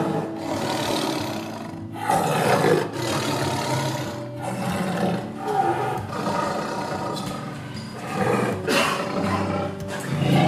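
Male lion roaring several times, over background music.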